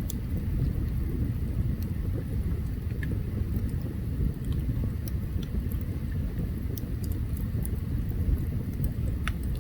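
Open campfire burning: a steady low rumble with scattered sharp crackles and pops.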